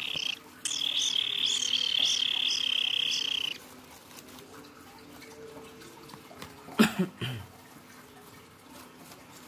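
A young kingfisher's begging call: a continuous buzzing trill with a regular pulse. It breaks off briefly about half a second in and stops about three and a half seconds in. A couple of short knocks follow near seven seconds.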